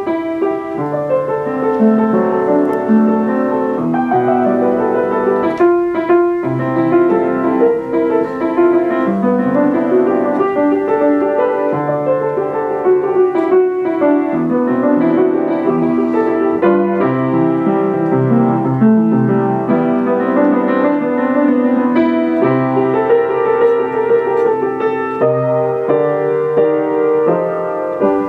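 Piano music playing steadily, a run of changing notes with no speech over it.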